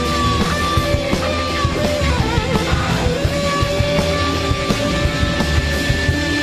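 Blues-rock band playing: an electric guitar solo of long sustained notes, with a bent note sliding down and back up about halfway through, over drums and bass.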